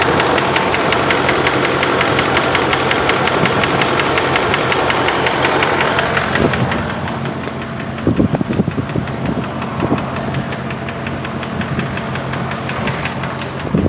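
2005 Dodge Ram 2500's 4.7-litre V8 running with a fast, regular tick. The owner takes the tick for a bad lifter, rod, piston wrist pin or timing chain tensioner, not a leaking exhaust manifold gasket. About six and a half seconds in, the engine sound turns quieter and duller.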